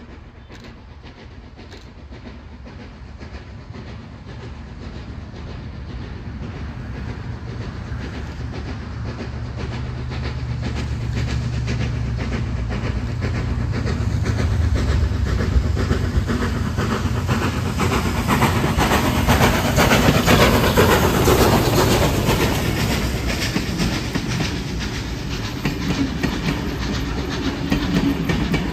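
A train approaching and passing close by. It grows steadily louder, peaks about two-thirds of the way through, then eases a little, with the wheels clattering over the rail joints.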